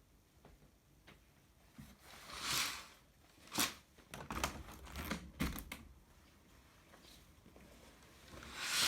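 Small objects being handled: a soft rustling swish, then a quick run of small clicks and taps, and another rustling swish near the end.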